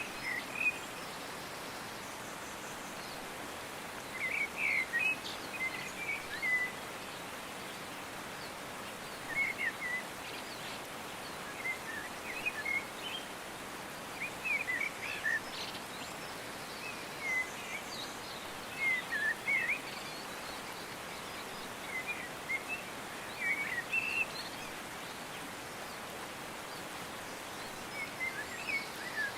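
A songbird singing short chirping phrases every few seconds over a steady outdoor hiss.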